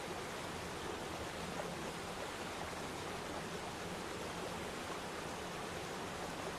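Waterfall: water falling and splashing into a pool in a steady, unbroken rush.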